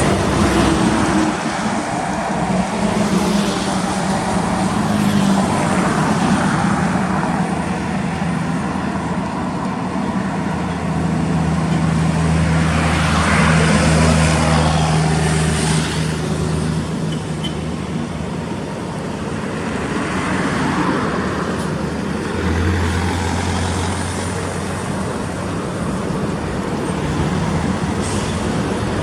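Heavy diesel trucks running on a road, a continuous low engine drone with road noise that swells and fades as vehicles go by.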